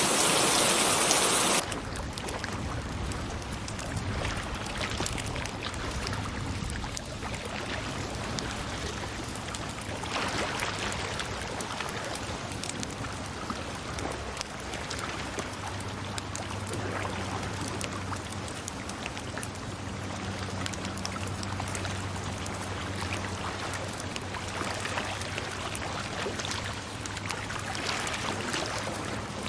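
A loud rain-like rush of water cuts off abruptly about a second and a half in, giving way to a quieter stream of running water with small splashes. A low steady hum joins in about halfway through.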